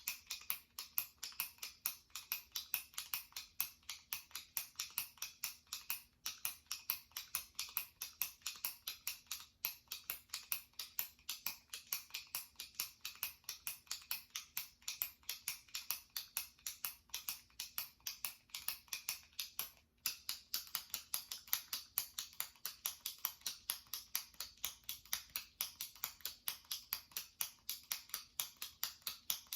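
Jumbo retractable pen's push-button clicking over and over, several sharp plastic clicks a second, with a few brief pauses.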